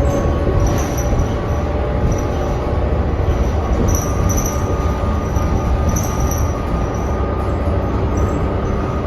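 Cabin of a 2019 New Flyer XD40 diesel transit bus under way: a loud, steady low rumble with a steady whine over it and short high-pitched squeaks now and then. The bus is one the rider says sounds insane.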